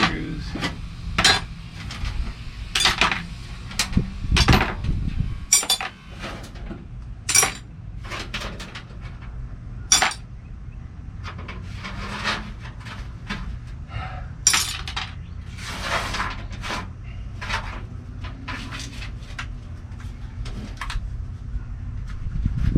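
Loose metal screws and bolts clinking and clattering as they are gathered up and dropped, with sharp clinks coming irregularly, often a second or so apart.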